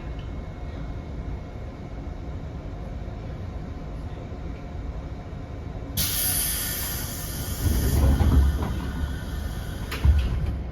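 Train running with a steady low rumble; about six seconds in, a sudden loud hiss of air starts and carries on, and the rumble swells before a sharp knock near the end.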